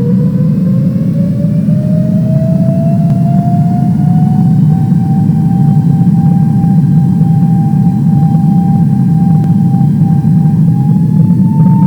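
Jet airliner engines spooling up for takeoff: a heavy rumble under a whine that rises in pitch for about five seconds, then holds steady and steps up slightly near the end.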